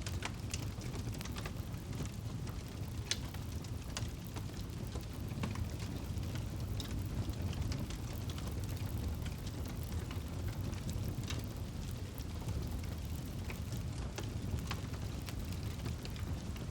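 Campfire burning: a steady low roar of the flames with sharp, irregular crackles and pops of burning wood.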